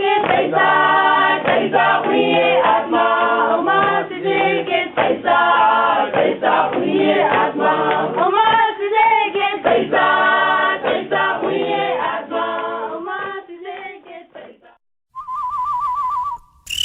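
A group of voices singing, with a dull sound that lacks any treble. The singing fades out about two-thirds of the way through. After a short gap, a brief warbling electronic tone sounds near the end.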